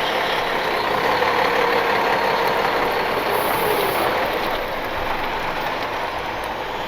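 Rollback tow truck's engine running steadily as the truck drives off, with a faint engine note drifting in pitch and the level easing slightly in the second half.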